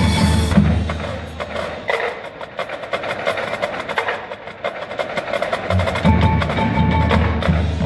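Marching band music. About a second in, the low brass drops out, leaving a thinner passage of quick, sharp percussion strikes with ringing mallet percussion. The full band with its low brass comes back in a little before six seconds.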